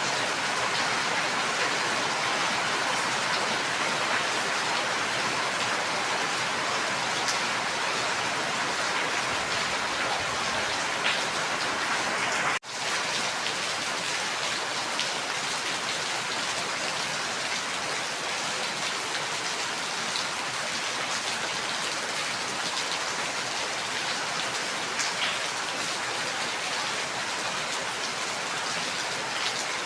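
Steady heavy rain falling, a dense even hiss with a few sharper drop hits here and there. The sound cuts out for an instant about twelve seconds in, then resumes.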